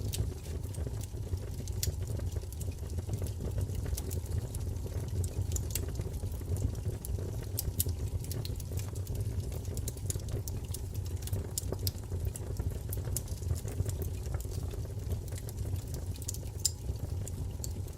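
Wood fire burning in a fireplace: frequent irregular sharp crackles and pops over a steady low rumble of flame.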